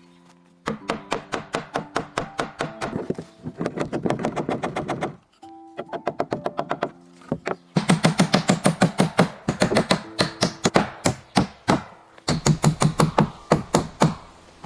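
Rapid runs of sharp knocks, about five a second, in several bursts separated by short breaks, over soft background music.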